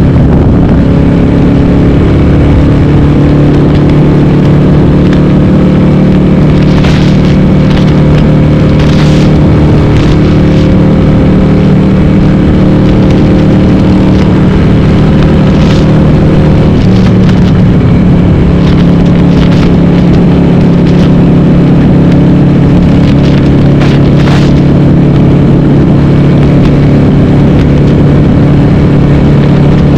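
Harley-Davidson Sportster's 1200 V-twin running loud through a Cobra Speedster 909 exhaust with the dB killers removed, at a steady cruise. The engine note shifts about halfway through, and there are a few brief sharp noises along the way.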